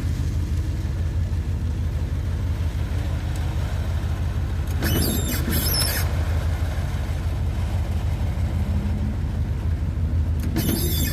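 1992 Dodge B250 van driving along, heard from the cab: a steady low engine and road rumble, with a brief louder noise about five seconds in. The engine has just had a tune-up with new spark plugs.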